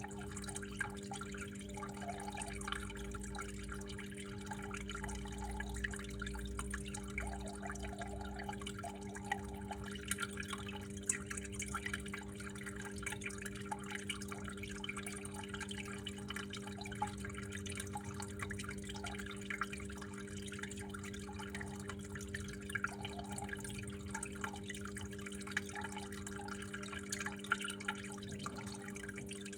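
Water flowing and dripping steadily, an irregular patter of many small drops, over a constant low hum.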